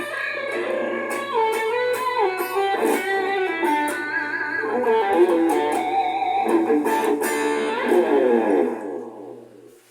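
Tagima Arrow 2 electric guitar playing a quick melodic line of single notes, with a faint steady hum underneath. The last notes ring and die away near the end.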